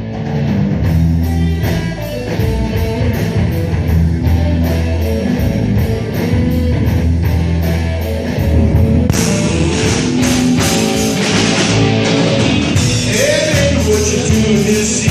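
Rock music with a steady beat and sustained bass notes; the band sounds brighter and fuller from about nine seconds in.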